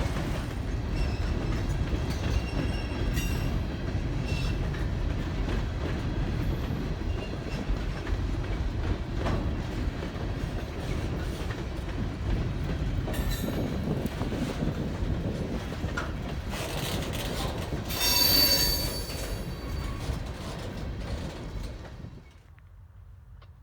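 Canadian Pacific ballast train's cars rolling past, a steady rumble of steel wheels on the rails with high wheel squeal, loudest about eighteen seconds in. The sound drops away abruptly a second or so before the end.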